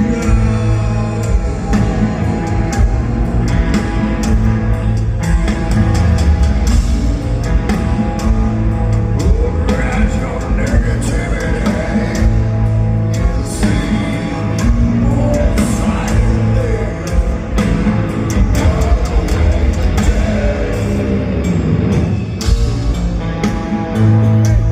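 Heavy metal band playing live: distorted electric guitars, bass and a drum kit, with a singer's voice over them, heard over an arena PA.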